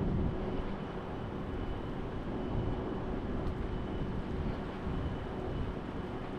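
Steady rumbling ambient noise with a faint continuous hum, without distinct single events.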